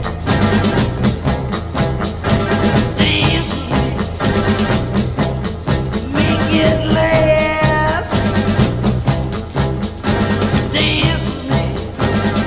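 Instrumental passage of a 1960s garage-rock recording, a full band with tambourine keeping a steady beat, and one held note about six seconds in.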